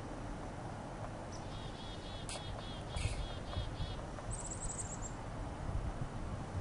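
Small birds calling in a winter woodland: a run of short repeated high chirps, then a quick, very high-pitched trill about four and a half seconds in. A low rumble of wind or handling grows louder about three seconds in, with a couple of sharp clicks.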